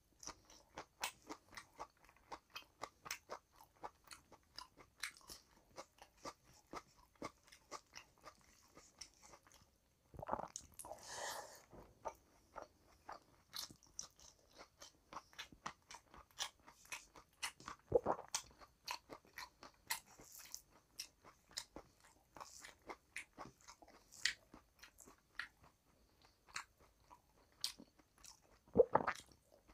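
A man chewing and biting mouthfuls of rice and curry eaten by hand. Many small crisp mouth clicks come about two a second, with a longer, louder stretch of mouth noise about ten seconds in and a few sharper bites later on.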